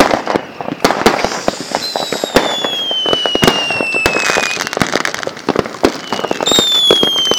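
Fireworks and firecrackers going off in rapid, dense cracks and pops. Two long whistles fall in pitch over about two seconds each, one about two seconds in and another near the end.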